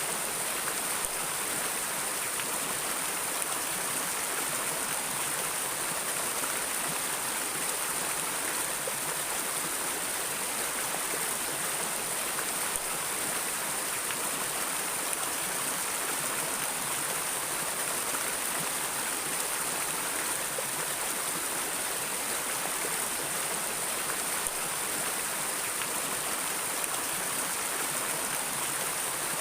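Stream water flowing and splashing in a steady rush, even throughout with no change.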